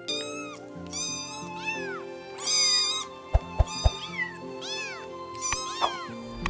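A domestic cat meowing over and over, about one meow a second, each call rising and then falling in pitch, over background music. Three sharp clicks come in the middle.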